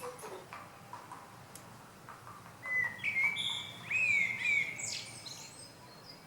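A small songbird singing: a few faint chirps, then a loud phrase of clear whistled, sliding notes that starts about two and a half seconds in and lasts about two seconds.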